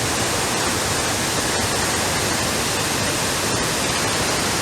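Steady, loud rush of a large waterfall, Athirappilly Falls, heard close to its base.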